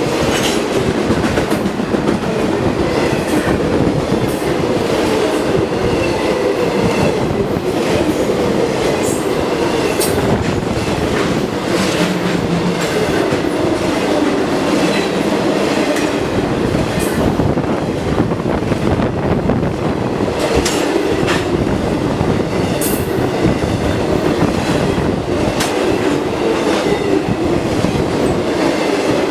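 BNSF intermodal freight cars rolling past at speed: a steady rumble of steel wheels on rail, with sharp clicks as the wheels cross rail joints.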